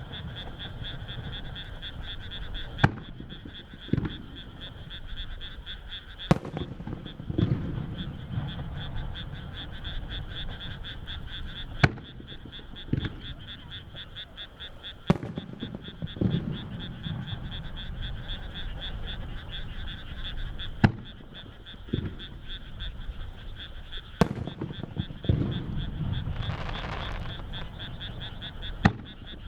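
Large aerial firework shells bursting one after another, a sharp bang every few seconds, often followed about a second later by a second report and a low rolling rumble. Underneath, a steady pulsing chorus of frogs calling from the surrounding rice fields.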